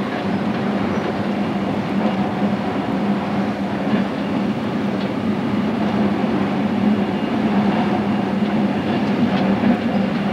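InterCity train running at speed, heard from the driver's cab: a steady running rumble with a low hum and a few faint clicks from the rails.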